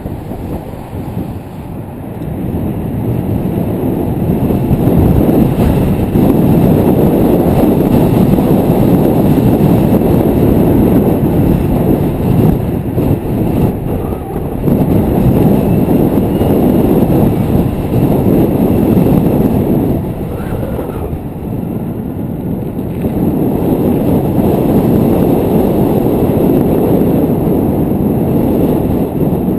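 Wind buffeting the microphone of a camera carried on a moving bicycle: a loud, gusting low rumble that eases briefly about two-thirds of the way through.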